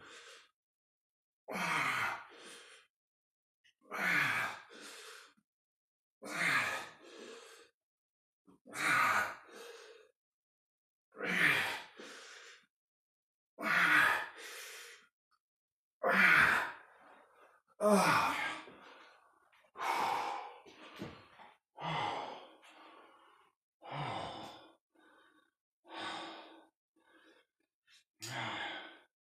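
A man's hard breathing through a set of dumbbell back rows: a loud exhale with each rep, each followed by a shorter, quieter breath, about every two and a half seconds, coming a little quicker and weaker in the second half.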